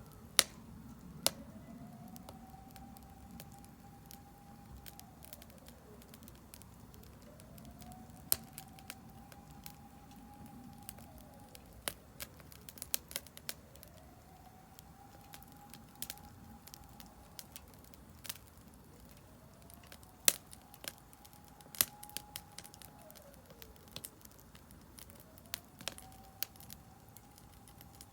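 Firewood crackling and popping in a Solo Stove Campfire fire pit, with scattered sharp pops over a soft steady hiss. A faint siren wails behind it, rising, holding and falling about every five to six seconds.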